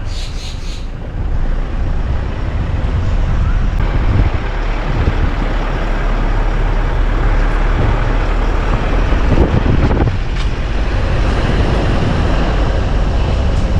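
Truck driving along a road: steady engine and road noise.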